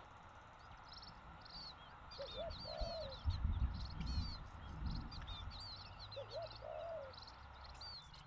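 Birdsong: rapid, high chirping from small birds throughout, with a dove cooing in two short phrases, one early and one near the end. A low rumble swells in the middle and is the loudest part.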